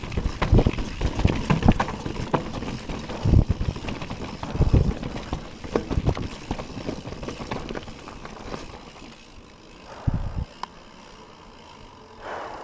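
Mountain bike descending a rough trail: tyres, frame and chain rattling, with heavy thuds as it hits bumps and drops. The rattling grows quieter about eight seconds in, with one more thud near the end.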